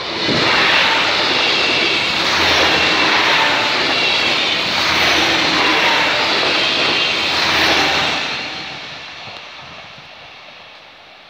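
A passenger multiple-unit train passing close by at speed: a loud rush of wheels on rails that sets in abruptly at the start, holds for about eight seconds with a few swells, then fades as the train moves off.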